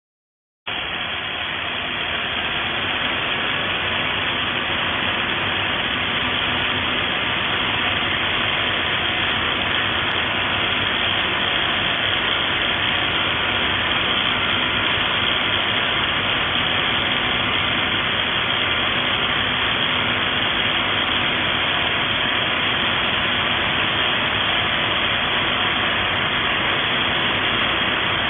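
XCORT XZC06-26 SDS-plus rotary hammer switched on and running steadily; it starts abruptly just under a second in.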